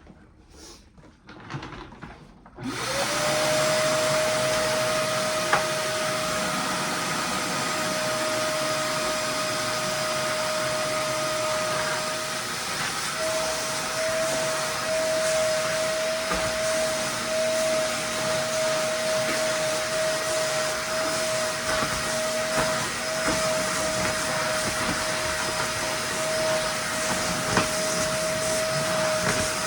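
Wet-and-dry industrial vacuum cleaner switched on about three seconds in, then running steadily with a constant high whine over its motor noise.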